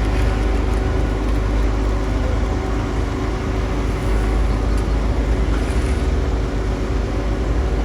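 Heavy diesel construction machine engine running steadily with a deep low rumble.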